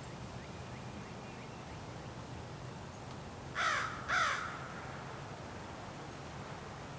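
A crow cawing twice in quick succession, about halfway through, over a faint steady low hum.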